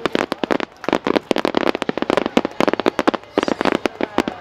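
Wide starmine fireworks barrage: aerial shells bursting in quick succession, many sharp bangs and crackles a second with no let-up.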